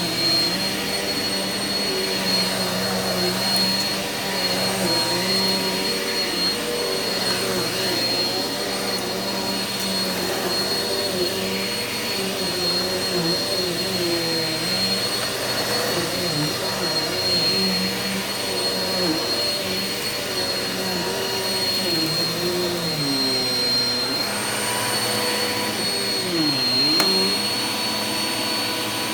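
Eureka vacuum cleaner running on carpet, a steady rushing drone with a high whine. Its lower tones waver up and down as it is worked across the pile.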